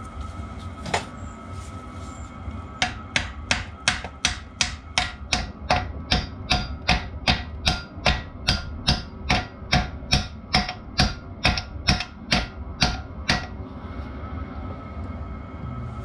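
Hammer striking metal: a single blow about a second in, then a steady run of about thirty sharp blows, roughly three a second, stopping a few seconds before the end.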